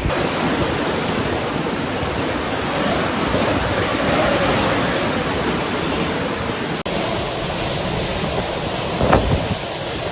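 Typhoon wind and heavy rain: a steady, dense rush of noise. It drops out for an instant just before seven seconds in, and a brief louder gust comes near the nine-second mark.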